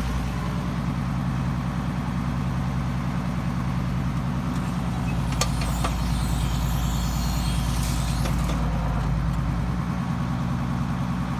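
International Harvester 1086 tractor's six-cylinder turbo diesel running steadily, with a couple of sharp clicks about halfway through.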